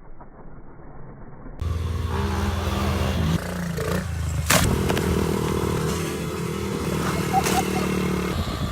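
Small pit bike engine running, coming up loud about a second and a half in and shifting revs briefly before holding steady, with a sharp click about halfway through.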